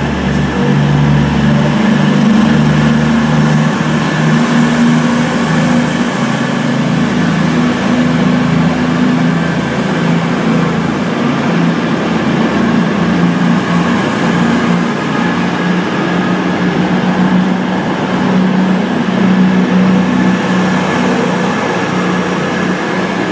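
Class 221 Super Voyager diesel-electric multiple unit's underfloor Cummins diesel engines running with a steady, loud drone.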